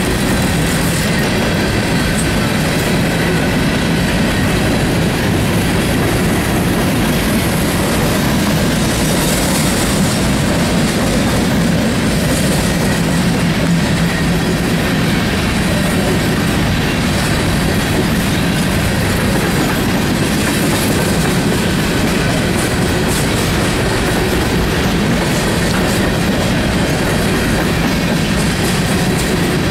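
Loaded BNSF grain train's covered hopper cars rolling past close by, a steady, loud noise of steel wheels running over the rails that carries on without a break.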